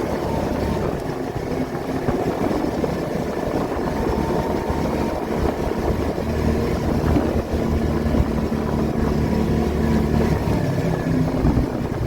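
Car engine running and road noise while driving, heard from inside the cabin: a steady low engine hum with scattered bumps and knocks.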